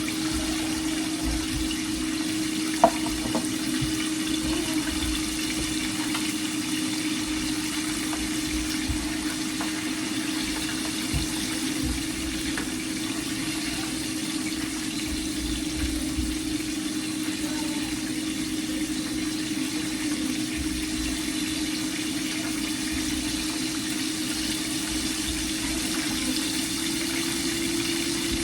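Chicken pieces deep-frying in hot oil, giving a steady sizzling hiss with an even hum beneath it, and a single sharp click about three seconds in.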